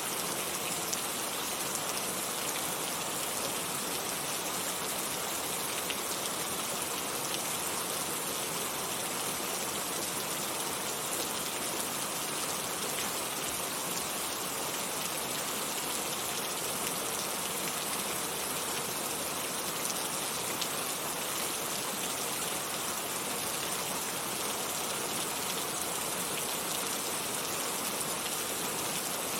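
Heavy rain falling steadily, a constant hiss of many raindrops with fine patter on surfaces.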